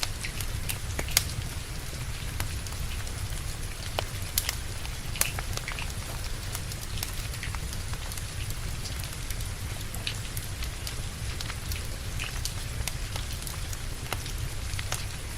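Steady rain with a wood fire crackling, sharp pops and snaps scattered irregularly over a constant low rush of noise.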